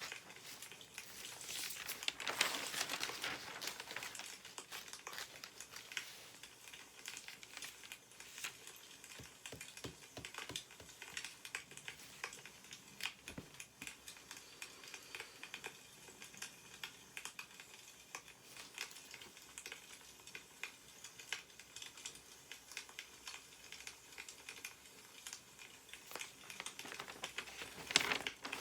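Newspaper pages rustling and being handled, louder about two seconds in and again near the end, over a steady scatter of small crackles and ticks.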